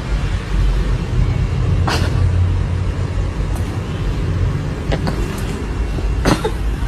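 A steady low rumble, like a vehicle running or wind on the microphone, with a few brief knocks.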